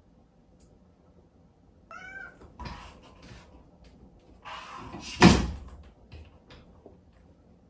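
Exotic shorthair kitten gives one short meow, calling for its owner, about two seconds in. Scratchy rustling noises follow, then a sharp loud knock a little past five seconds and a few faint clicks.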